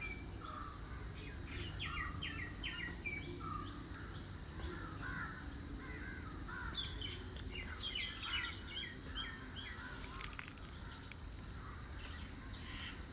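Birds calling, with crows cawing and runs of short, quick chirping notes in two bursts, over a low steady rumble.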